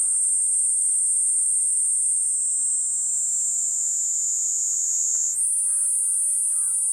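Kuroiwa's niinii cicada (Platypleura kuroiwae) singing a continuous high-pitched buzz, which sags slightly in pitch about two seconds in and snaps back up about three-quarters of the way through. Faint short bird calls repeat in the background.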